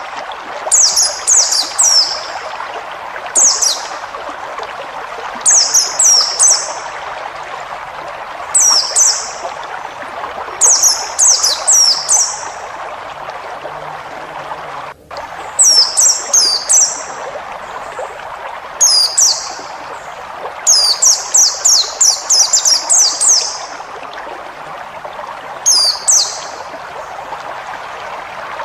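Wild white-eye (pleci) singing: quick clusters of three to eight high, down-slurred notes, a new cluster every second or two, over a steady rush of running water. Everything cuts out for an instant about halfway through.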